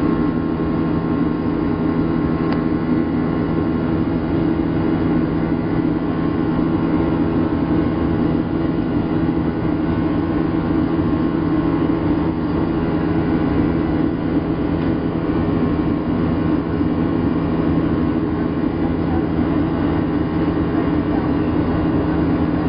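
Boeing 737-700 cabin noise: a steady engine drone with a constant low hum over rushing air, heard from inside the cabin.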